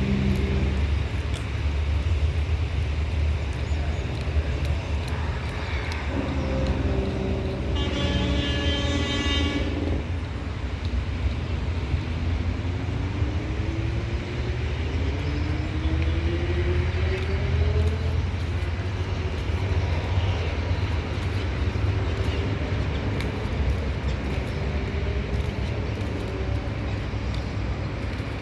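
Diesel passenger train running with a steady low rumble. A horn sounds for about two seconds around eight seconds in, and a whine rises in pitch between about twelve and eighteen seconds in.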